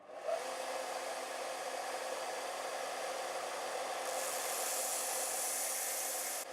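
Sealey belt sander switched on and running steadily. About four seconds in a high grinding hiss joins, as a blade is ground against the abrasive belt, and it drops away near the end.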